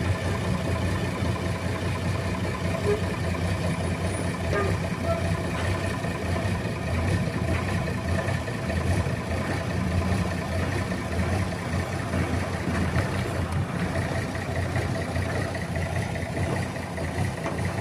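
Diesel engine of an old road roller running steadily, with no change in speed.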